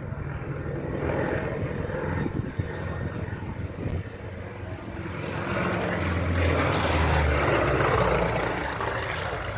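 Fokker D.XXI replica's piston engine and propeller running, growing louder to a peak about two-thirds of the way through, then easing a little.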